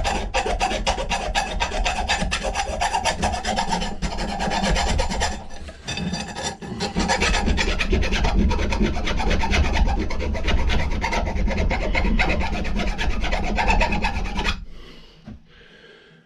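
Hand file scraping back and forth on an old steel axe head, cleaning up the inside, in quick repeated strokes. There is a short break about six seconds in, and the filing stops shortly before the end.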